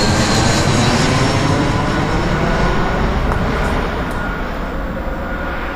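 A small airliner coming in to land at low height passes overhead: its engines make a loud, steady rush of noise with a faint whine that slowly fades as it moves away.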